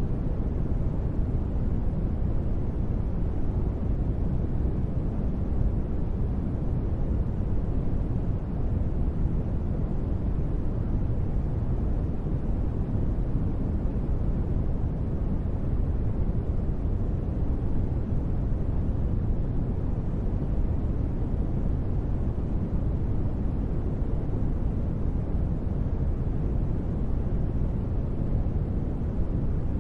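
Steady, unbroken noise of a deep-space ambience track: a deep, even rumble, with most of its weight low and only a faint hiss on top.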